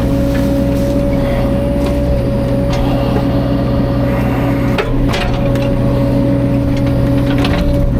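Caterpillar 305.5 mini excavator's diesel engine running at a steady speed under work, with scattered cracks and knocks of wood breaking and a sharper crack about five seconds in.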